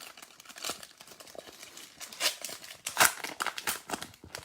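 Trading cards being slid and flicked through by hand: a run of quick card snaps and rustles, the sharpest about three seconds in.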